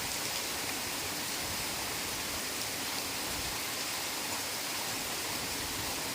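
Heavy rain falling steadily on forest foliage, an even hiss with no single drops or thunder standing out.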